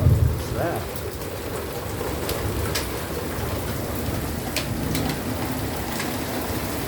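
Torrential rain pouring down steadily, with a low rumble of thunder dying away at the start. A few sharp ticks stand out, the first hailstones striking.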